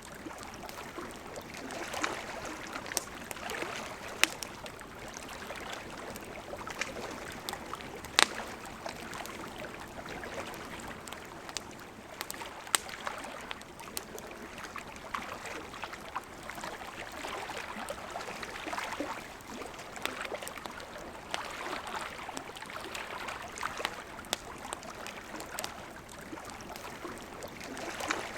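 A river flowing steadily, with a campfire crackling over it in sharp, irregular pops.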